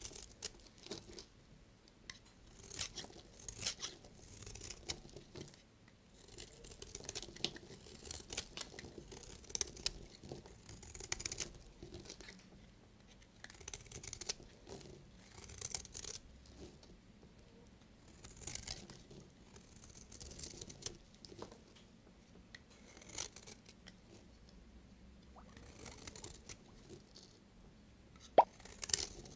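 A knife cutting through bars of soap in crisp scraping, crunching strokes that come in groups about every two seconds, with one sharp click near the end.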